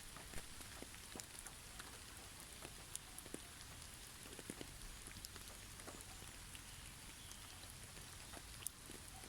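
Faint patter of falling drops, with scattered sharp ticks over a steady soft hiss.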